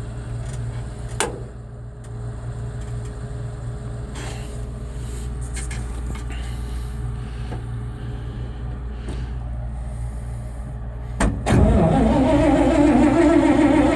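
A steady low engine drone, then a clunk about 11 seconds in and a louder starter cranking the Cockshutt 555 combine's Chrysler industrial 318 V8 over without it firing: the engine is slow to start because fuel takes a while to come up from the tank.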